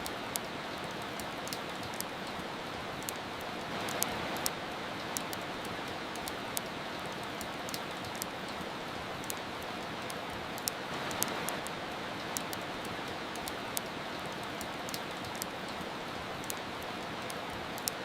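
Steady rain hiss with the irregular crackles and pops of a wood fire, several a second, the pops standing out as the loudest sounds.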